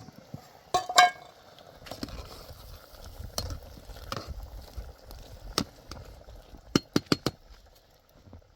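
Hard objects clinking and knocking against each other, with one loud ringing clink about a second in and a quick run of four sharp clicks near the end.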